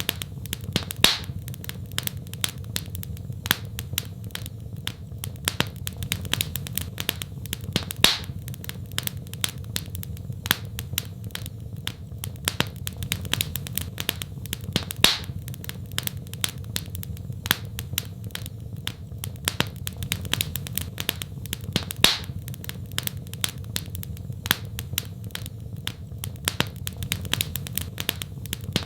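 Wood fire crackling in a fireplace: a dense run of small crackles and snaps over a low steady rumble, with a louder pop about every seven seconds.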